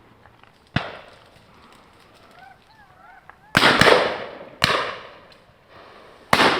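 Shotgun shots from guns firing at driven birds: five sharp reports, one about a second in, a quick pair about halfway, another a second later and one near the end, each trailing off in a short echo. A brief warbling call sounds between the first and second shots.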